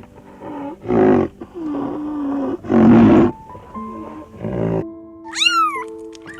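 A big cat roars twice, about a second apart, over background music with long held notes. Near the end a domestic cat meows with a rising-then-falling call.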